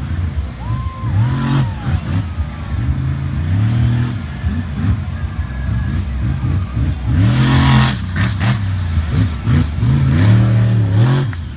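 Iron Warrior monster truck's engine revving hard over and over, its pitch rising and falling with each stab of the throttle. Louder rushing bursts come in about seven seconds in and again near the end.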